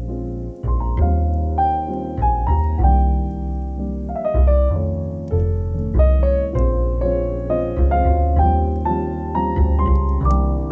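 Calm, slow piano music: a steady run of single notes and chords over held low bass notes.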